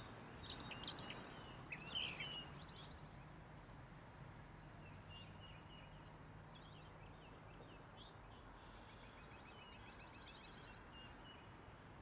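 Faint outdoor birdsong: several small birds chirping, with a few short rapid trills. It is loudest in the first two seconds.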